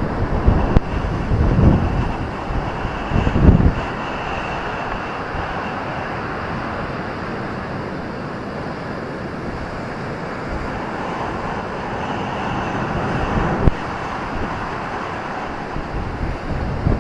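Ocean surf washing onto a beach, a steady rushing noise, with wind buffeting the microphone in low gusts during the first few seconds.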